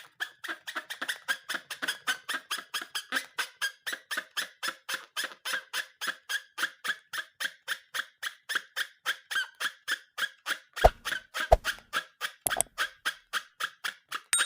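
Rapid, very regular squeaking, about four or five short squeaks a second, with two sharp knocks about eleven seconds in.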